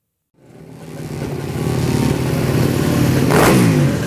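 Motorcycle engine running and revving, fading in after a short silence and growing steadily louder, loudest about three and a half seconds in.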